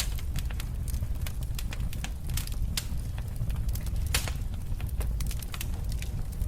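Wood fire crackling in a fireplace: a steady low rumble of the flames under many irregular sharp pops and snaps, one louder pop about four seconds in.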